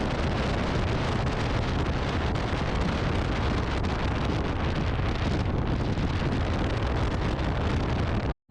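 Steady wind rushing over the microphone, a constant rough noise with no clear engine tone, cutting off suddenly near the end.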